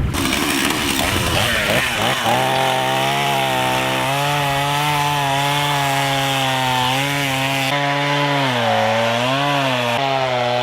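Two-stroke chainsaw running steadily at high speed, its engine note dipping and recovering twice near the end as it takes load.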